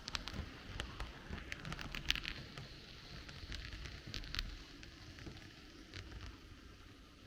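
H0 model train rolling along the track, with a low rumble and a hiss from the wheels. Irregular sharp clicks come as the wheels pass rail joints and points.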